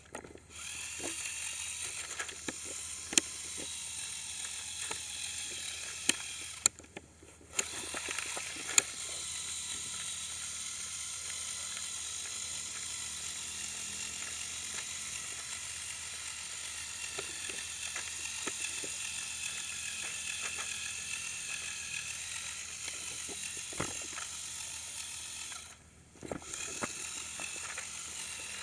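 Lego Technic RC truck's electric motors and plastic gear trains whining as it crawls, stopping briefly twice, with scattered clicks and knocks from the drivetrain and wheels.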